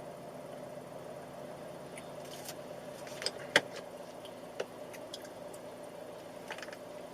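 Steady drone of a car in motion heard from inside, with a few sharp clicks or knocks, the loudest about three and a half seconds in.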